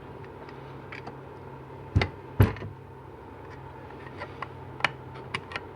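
Metal knocks and clicks of hand tools working a retaining clip into the bore of a 4L80E transmission pump: two sharp knocks about two seconds in, then a scatter of lighter clicks, over a steady low hum.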